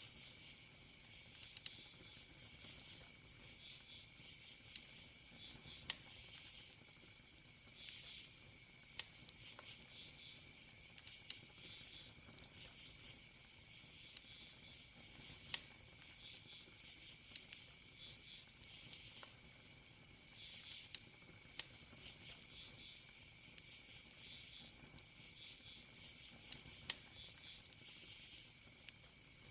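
Wood campfire crackling, with sharp irregular pops, over a steady high trill of crickets chirping.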